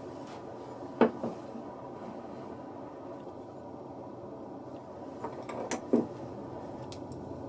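Workshop handling knocks, wooden parts or tools being picked up and set down, over a steady low background noise. There is a sharp knock about a second in, then a cluster of clacks a little before the end, the loudest of them near the end.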